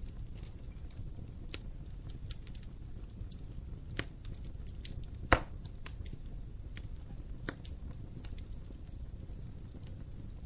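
Wood fire burning in a fireplace, with a steady low rumble and scattered crackles and pops; the loudest pop is about five seconds in.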